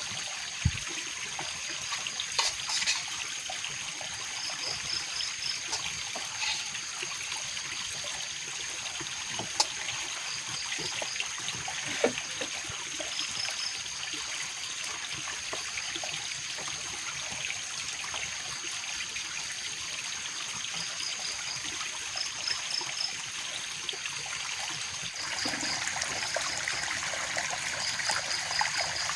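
Steady trickling water, growing louder about 25 seconds in, with a high continuous insect drone, short runs of rapid chirps and a few scattered clicks.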